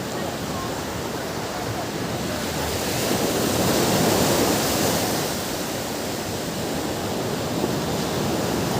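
Ocean surf washing onto a beach: a steady rush of breaking waves that swells about three seconds in, eases off, and builds again near the end.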